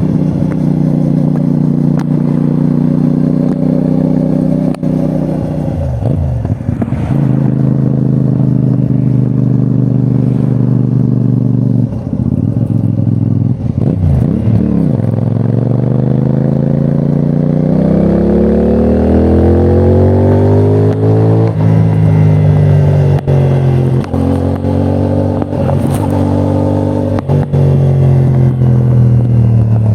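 CFMOTO 450NK's parallel-twin engine under way: steady cruising broken by short throttle-off dips for gear changes, then a long rising pull under acceleration about halfway through, a shift, and a higher steady note after it.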